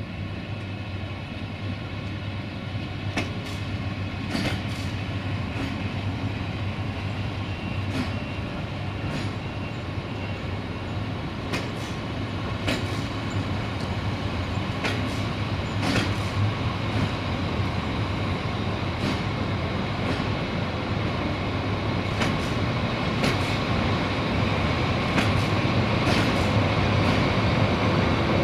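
Passenger train coaches rolling slowly past along the platform, the wheels clicking over rail joints every second or two. The rumble grows louder as the coaches draw near and pass.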